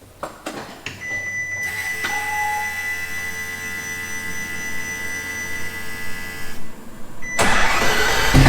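A few switch clicks, then the LaFerrari's electric systems powering up with a steady high whine for several seconds before its V12 starts with a loud burst near the end: a cold start.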